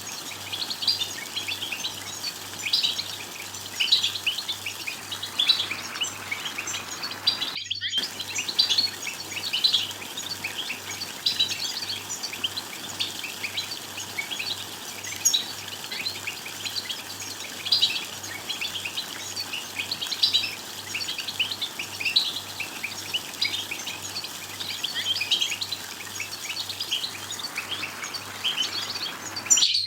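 European goldfinches twittering: a dense, fast run of short, high chirps and call notes overlapping one another, over a faint low hum. The sound cuts out for a split second about eight seconds in.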